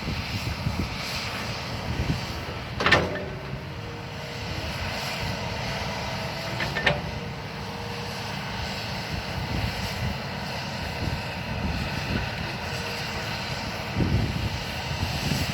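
Excavator's diesel engine running steadily while it works dirt, with a sharp clank about three seconds in, the loudest sound here, and a smaller one near seven seconds.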